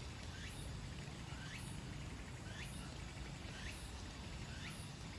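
Outdoor background noise with a bird giving a short rising chirp about once a second, and faint high pulses at the same pace.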